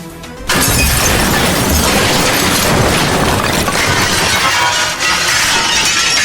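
A loud crash noise, a long stretch of smashing and breaking, that starts about half a second in and cuts off near the end, with music underneath.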